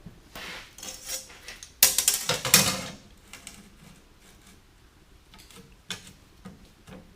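Pieces of scrap steel clanking as they are handled and laid out, with a clatter of several impacts about two seconds in, then a few faint knocks.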